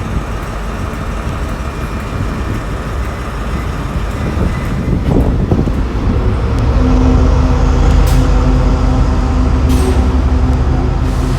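Class 70 diesel locomotive hauling a freight train through the station, its engine running with a steady low drone that grows louder about halfway through. There are a couple of brief sharp high-pitched sounds near the end.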